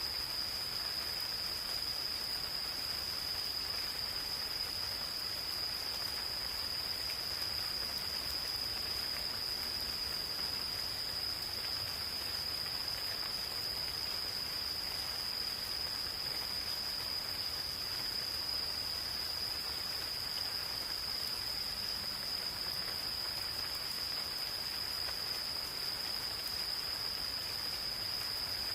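Gentle steady rain falling in a forest, with insects keeping up one continuous high-pitched trill throughout.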